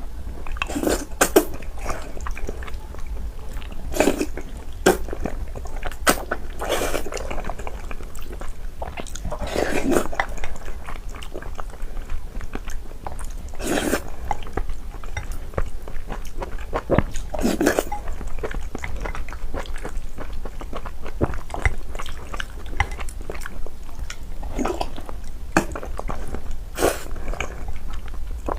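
Close-miked mukbang eating sounds: irregular bites and chewing of mouthfuls of hot pork-skin rice soup, with a few louder, crisper bites.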